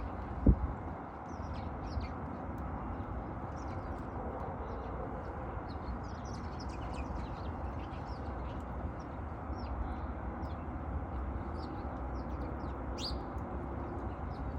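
Small birds chirping: many short, high chirps scattered throughout, with one louder chirp near the end. This sits over a steady low background noise. A sudden loud thump comes about half a second in.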